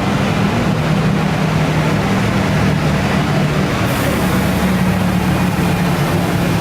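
A vehicle's engine running steadily, a low hum over a wash of noise, with a hiss that comes in about four seconds in.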